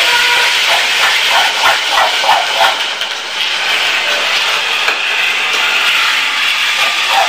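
Spice masala and tomato gravy frying in oil in a steel kadhai on a gas stove, sizzling steadily as a spoon stirs it.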